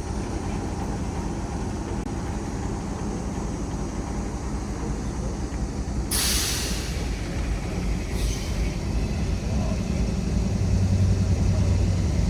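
Diesel locomotive engine running with a steady low hum, getting louder near the end. Two hisses of compressed air cut across it, a longer one about six seconds in and a shorter one about two seconds later.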